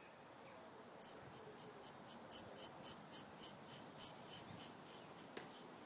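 Faint, quick, regular scraping strokes, about four a second, of a freshly sharpened bushcraft knife blade shaving hair off a leg.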